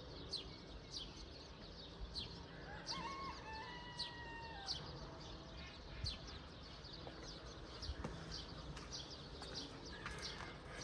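Birds chirping: short, high, falling chirps repeating about twice a second, with one longer call lasting about two seconds that starts roughly two and a half seconds in.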